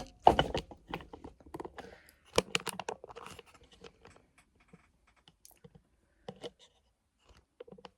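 Clicks and knocks of a lamp being handled and moved closer, busiest in the first three seconds, then a few scattered light taps.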